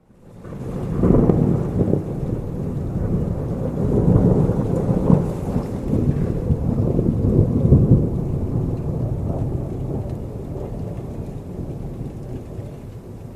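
Rolling thunder rumbling over steady rain. It starts out of silence and swells within the first second, stays loud for several seconds with surges, then slowly dies away over the last few seconds while the rain keeps falling.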